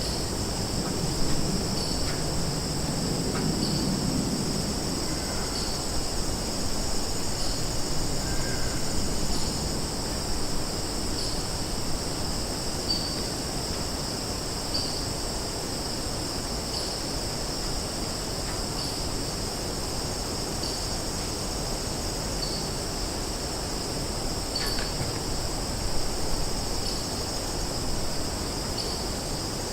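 Summer forest ambience: a steady chorus of crickets and other insects, a high shrill drone with a short chirp repeating about every two seconds. Underneath sits a low rumble that is heavier in the first few seconds.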